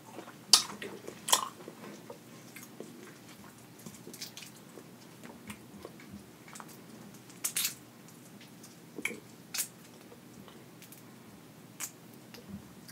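Chewing and eating shrimp: soft wet mouth sounds with a few sharp smacks and clicks spread irregularly, the loudest about halfway through.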